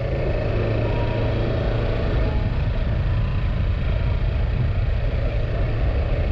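Kawasaki Ninja 650 motorcycle's parallel-twin engine running steadily while riding, under a steady rush of road and wind noise.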